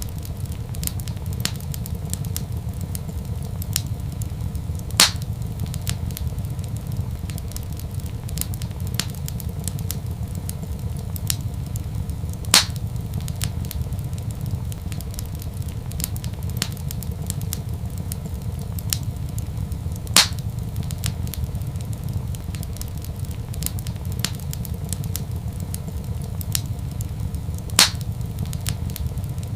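Wood fire in a fireplace crackling steadily over a low rumble, with many small ticks and four louder pops about seven and a half seconds apart.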